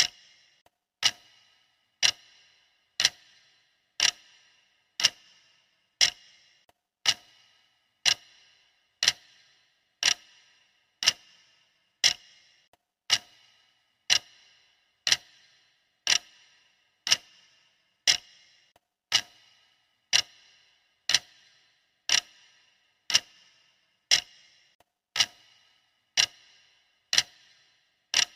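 Steady clock-style ticking of a countdown timer: one sharp tick every second, each with a brief ringing tail.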